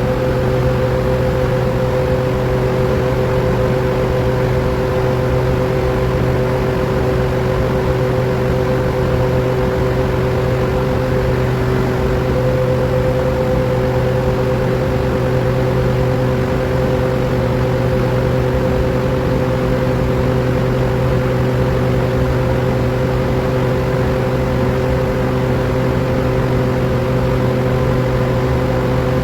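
100 HP electric motor driving a grinder machine, running with a steady, unbroken hum.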